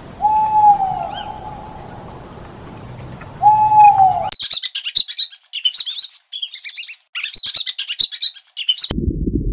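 An owl hooting twice, each hoot a held tone that dips slightly at its end. Then a rat squeaking in quick runs of high-pitched squeaks for about four seconds.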